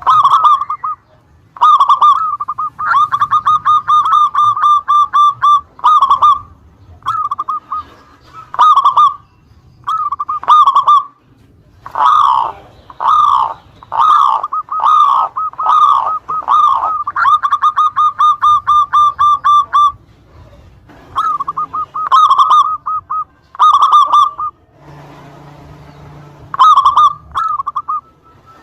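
Local zebra dove (perkutut) cooing in repeated phrases of quick, rhythmic notes, the phrases broken by short pauses, with one long unbroken run in the middle.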